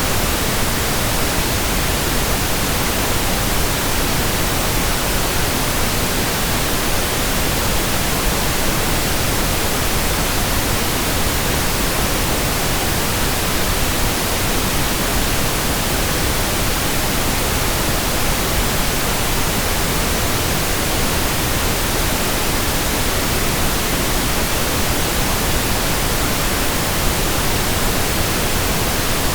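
Steady, unchanging pink noise: an even hiss spread across all pitches, heavier in the low end than white noise.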